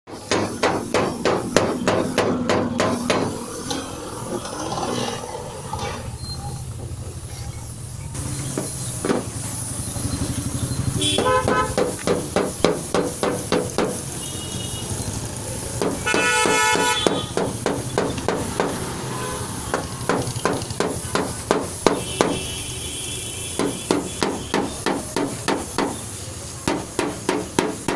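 Rapid, regular hammer blows on metal, about three to four a second, going on in runs through the whole stretch. A horn sounds briefly twice, about eleven and sixteen seconds in.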